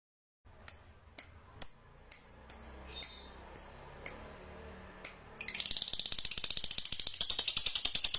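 Recorded songbird calls, starting after a moment of silence: a series of sharp, high chip notes about twice a second. About five seconds in they give way to a fast, dense, high trill that gets louder near the end.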